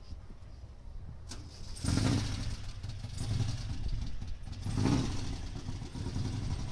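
A car engine starts suddenly about two seconds in and keeps running with a steady low rumble, surging briefly again near five seconds.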